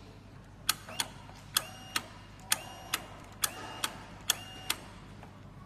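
Motorcycle ignition key switch clicked on and off five times in quick succession, two clicks per cycle, with a faint high whine while the ignition is on. This key-cycling is the step for resetting the engine trouble light.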